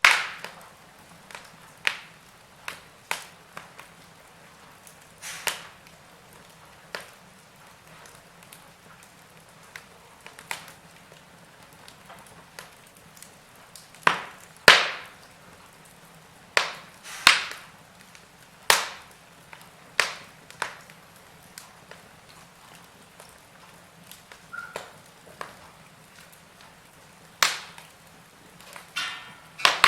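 Wood fire crackling in a fireplace: irregular sharp pops and snaps, some much louder than others, spaced a second or more apart.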